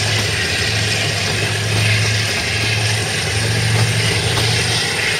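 Passenger train running: a steady low hum with a broad rushing hiss of running noise.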